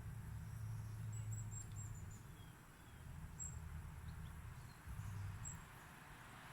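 Faint, high-pitched chirps of small birds: a quick run of chirps about a second in, then single chirps, over a low steady hum.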